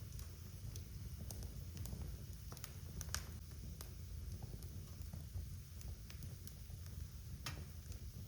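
Wood fire crackling in a fireplace: scattered sharp snaps and pops over a steady low rumble of burning logs, with a louder pop about three seconds in and another near the end.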